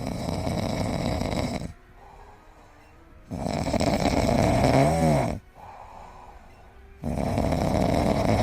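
A sleeping pet snoring loudly: three long snores about three seconds apart, the middle one breaking into a brief wavering whistle near its end.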